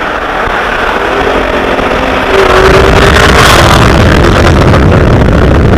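Supercharged 6.2-litre V8 of a Dodge Charger Hellcat with a muffler delete, running loud under acceleration; it gets louder about two seconds in and holds there.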